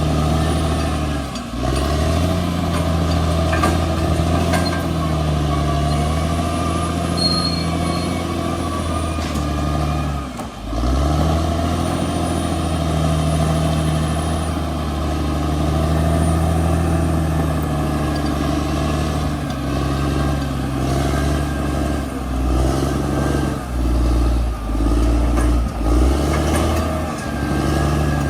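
Bulldozer's diesel engine running hard, its pitch rising and falling with the load. There are short drops about a second and a half in and again about ten seconds in.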